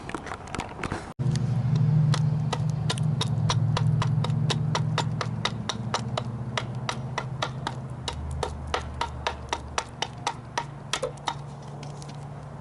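Rapid, even knocks of a mallet striking a carving chisel or gouge into wood, about three to four strikes a second, over a low steady hum.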